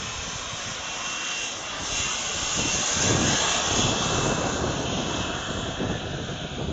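Light aircraft engine running as the plane flies past, growing louder about two seconds in, loudest around three to four seconds, then easing slightly.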